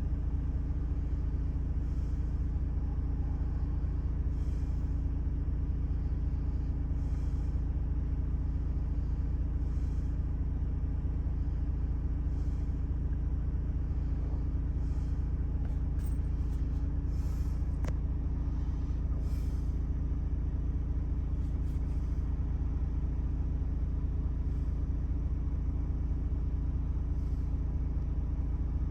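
2018 Ford Transit's 2.0-litre Duratorq diesel engine idling steadily, a healthy engine with no fault.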